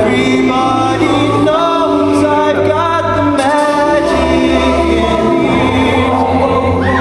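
A cappella vocal group singing in harmony, several voices holding and sliding between chords over a sung bass line.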